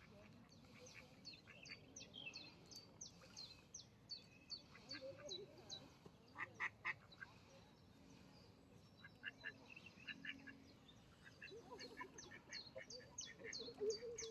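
Ducks quacking faintly in short runs, while a small bird chirps rapidly and high-pitched over them.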